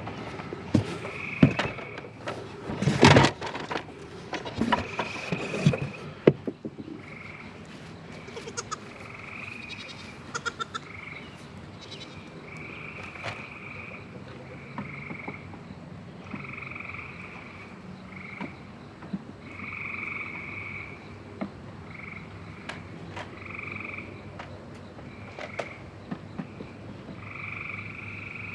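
Frogs calling, short calls repeating every second or two. Several loud knocks and clattering sounds come over the first few seconds.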